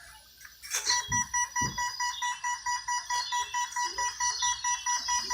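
Electronic beeper sounding a rapid, steady series of short high beeps, about four a second, starting about a second in. Two low thumps come just after the beeping begins.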